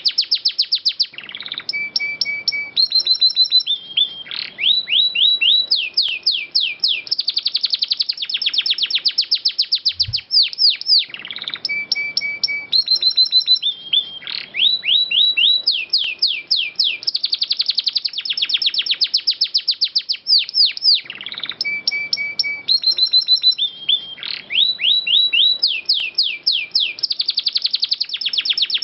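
Domestic canary singing a long, clear song of fast rolling trills and runs of quick sweeping chirps, the same song phrase repeating about every ten seconds.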